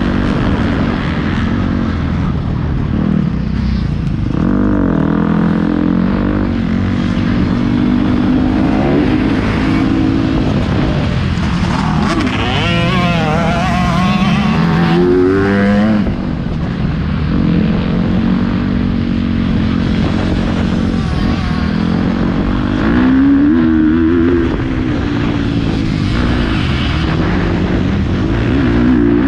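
Motocross bike engine ridden hard around a track, revving up and falling back again and again through gear changes. About halfway through, the revs waver quickly up and down for a few seconds.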